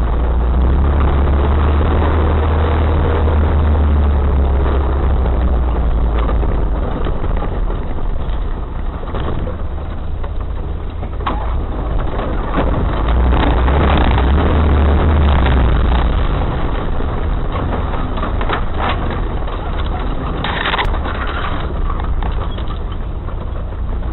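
Off-road vehicle's engine running steadily as it drives over rough ground, swelling a couple of times, with scattered knocks and rattles through the middle.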